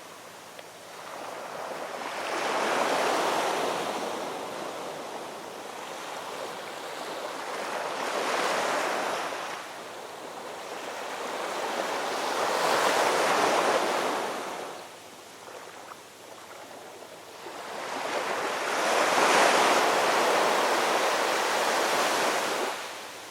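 Gentle ocean waves breaking and washing in, swelling and fading in four slow surges.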